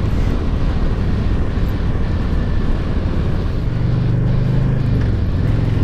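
Honda VTX1300 V-twin motorcycle engine running at cruising speed with wind noise, a steady low drone. Its note rises a little about three and a half seconds in, then settles back near the end.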